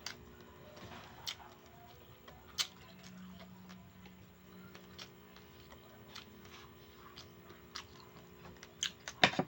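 A person chewing a mouthful of food, with soft scattered clicks and a few louder sharp clicks near the end.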